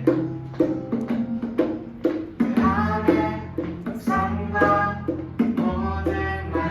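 Live acoustic band playing a worship song: a steady percussion beat about twice a second, bass notes underneath, and a melody line over the top.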